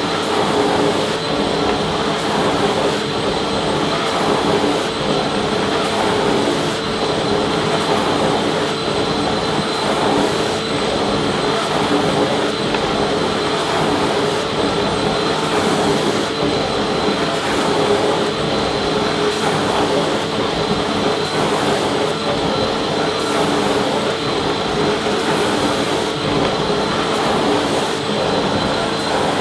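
Vacuum cleaner running continuously at a constant speed: a steady motor hum with a high whine over the rush of air.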